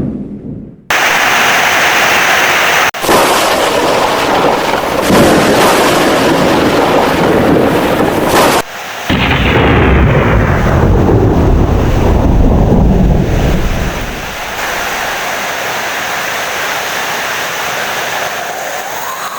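Heavy rain with loud rolling thunder. The sound cuts off and starts again abruptly a few times, and the rumble dies down to steadier rain for the last few seconds.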